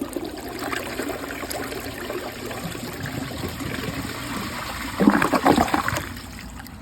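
Water running and trickling in a 2005 Crane Athens toilet as it refills after a flush. There is a louder burst of splashing about five seconds in, then it quietens.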